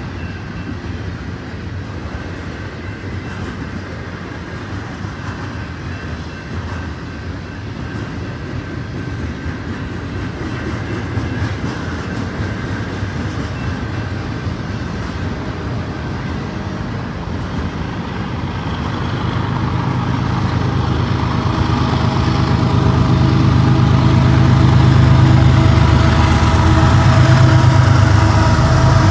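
Double-stack intermodal freight train rolling past on steel wheels with a steady clatter of cars. From about two-thirds of the way in, the diesel engines of two mid-train BNSF helper locomotives grow louder as they approach, their low drone becoming the loudest sound.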